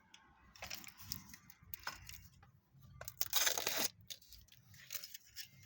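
Toy packaging being handled: scattered light clicks and taps, with a loud burst of tearing and crinkling about three seconds in that lasts under a second.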